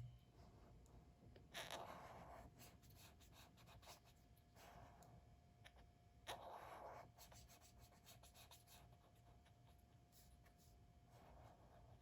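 Faint scratching of colouring strokes on paper, in several short spells of about a second each, with small ticks between them, over a faint steady hum.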